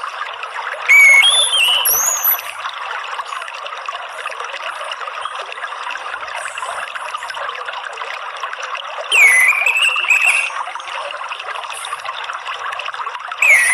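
Water trickling steadily, with short whistled phrases of orange-headed thrush song over it: one about a second in, a longer one around nine seconds in, and another starting at the very end.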